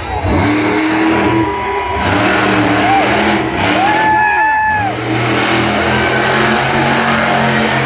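Monster truck engine running hard during a run, its revs rising and falling in a few sweeps over a steady heavy drone.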